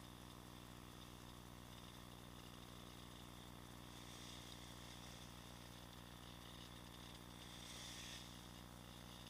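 Near silence: a steady low hum and faint hiss, with two faint swells of hiss about four and eight seconds in.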